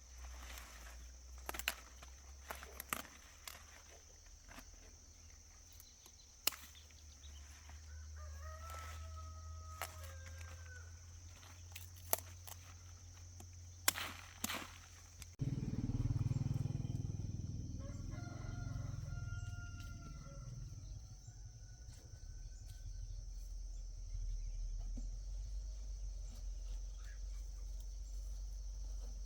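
A rooster crowing twice, once about nine seconds in and again around twenty seconds, over scattered sharp clicks and a steady high insect-like whine.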